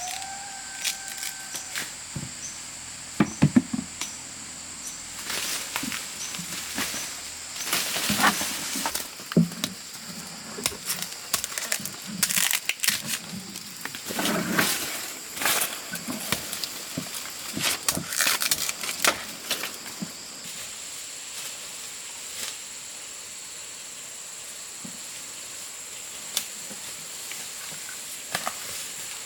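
Irregular rustling, snapping and crackling, like someone moving through or handling dry vegetation, busiest for the first two-thirds and settling down near the end. Under it runs a steady high drone of forest insects.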